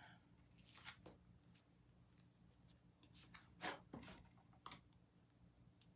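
Near silence with a few faint handling noises from craft materials being picked up and arranged: soft clicks and rustles about a second in, a cluster around three to four seconds, and one near five seconds.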